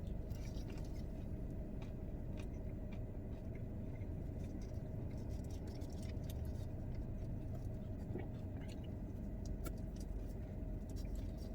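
Steady low rumble of an idling car heard from inside the cabin, with faint scattered clicks and rustles from eating.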